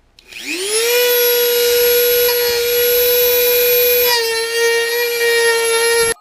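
Dremel rotary tool with a cut-off wheel spinning up to a steady high whine while cutting plastic bumper trim. Its pitch drops slightly about four seconds in as it takes load, and the sound stops abruptly near the end.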